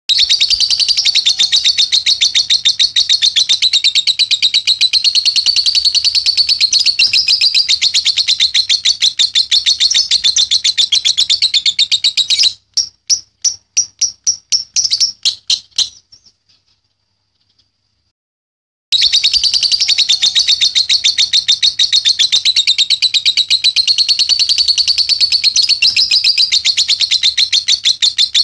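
Young lovebird's ngekek: a long, fast, unbroken run of high chattering notes. About twelve seconds in it slows into separate notes and stops, and after some three seconds of silence the rapid chatter starts again.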